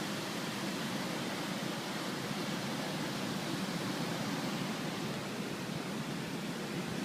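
Steady rushing of a fast-flowing, flood-swollen river.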